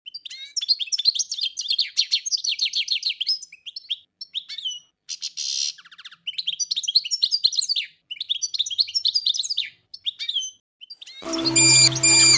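Small birds chirping and twittering in rapid high runs, broken by short pauses, with a brief harsh buzzy call about five seconds in. Music comes in near the end under the chirps.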